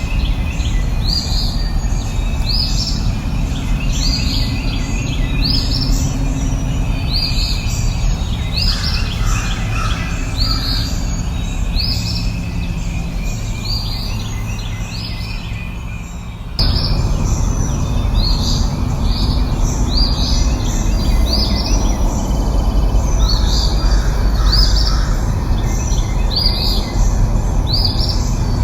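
Bird chirping over and over, short upward-sweeping chirps about one a second, over a steady low rushing noise. About sixteen seconds in, the sound cuts abruptly and the background noise comes back louder.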